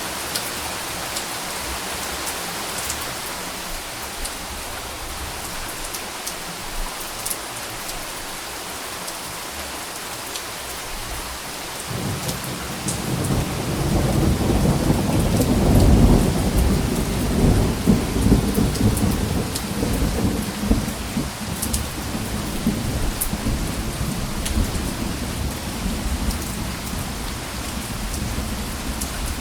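Steady rain falling with scattered drops ticking, joined about twelve seconds in by a rumble of thunder that swells to its loudest a few seconds later and rolls on, slowly fading.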